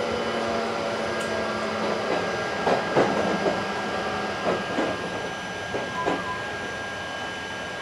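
Running sound of an Odakyu 60000 series MSE Romance Car, heard in the deck between cars: a steady rumble with a faint steady high tone. A few sharp knocks and rattles come in the middle.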